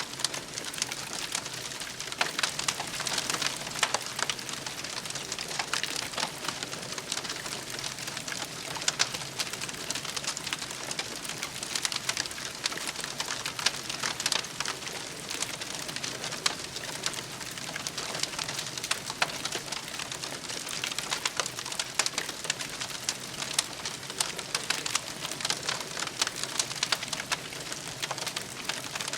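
Wood campfire crackling: a steady hiss with many small, sharp pops and snaps.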